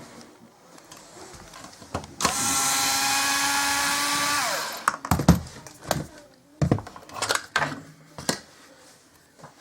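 A small electric power tool motor runs at a steady pitch for about two and a half seconds, then winds down, its pitch falling as it stops. Several sharp knocks and clatters of handled objects follow.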